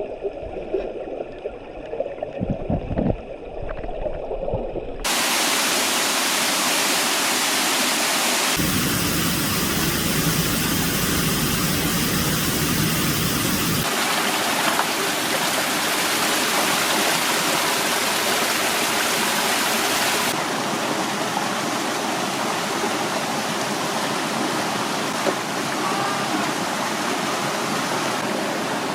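Mountain stream water rushing over rocks, a steady full-range noise. It changes abruptly in tone a few times, and the first few seconds are quieter with a few knocks.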